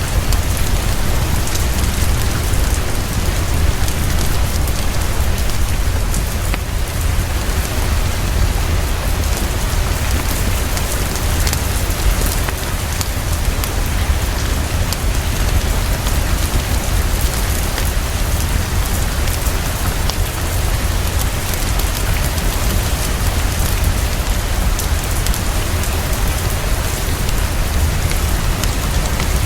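Heavy, fast, steady rainfall with a constant low rumble underneath.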